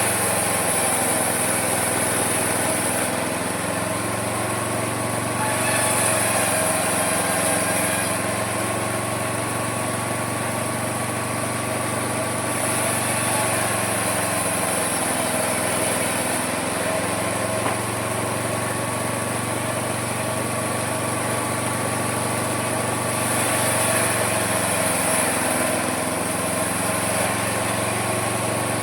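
Homemade mini sawmill running steadily while sawing wood. Its motor's pitch sags and recovers three times, and a high hiss of cutting comes and goes.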